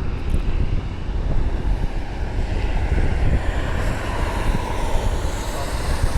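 Wind buffeting the microphone, with distant jet aircraft engine noise that grows louder from about halfway through.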